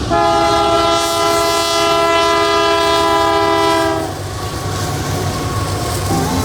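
A loud, sustained horn-like chord of several tones held for about four seconds and cutting off abruptly, followed by a lower, rumbling noise with faint tones.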